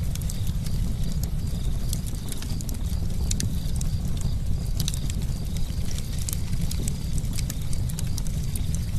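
Campfire crackling: wood popping in many sharp, irregular snaps several times a second over a steady low rumble of the burning fire.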